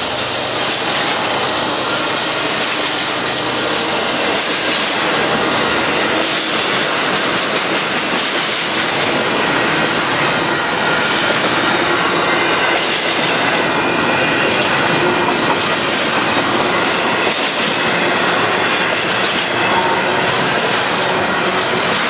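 A Union Pacific double-stack container train's well cars rolling past close by: the steady, loud noise of steel wheels running on the rails.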